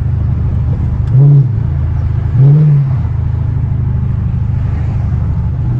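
Straight-piped Dodge Charger R/T's 5.7 L HEMI V8 running at a steady cruise, with two short throttle blips about a second and two and a half seconds in, each rising and falling in pitch and louder than the drone.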